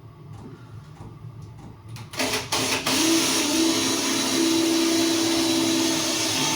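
Electric drill with a hole saw cutting a hole through the bottom of a box: after a quiet couple of seconds it gives a few short bursts, then runs steadily as the saw bites in.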